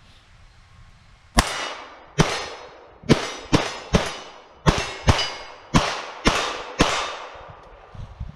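Ruger Mark III 22/45 pistol firing .22 LR rounds: ten sharp shots at an uneven pace, roughly one every half second to a second, each trailing off with a short echo. A couple of faint knocks follow near the end.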